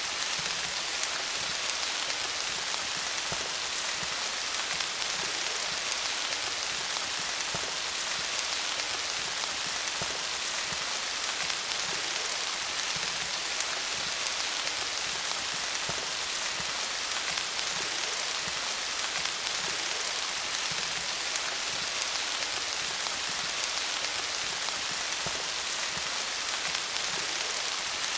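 Steady rain falling on leaves, an even hiss of many small drop taps.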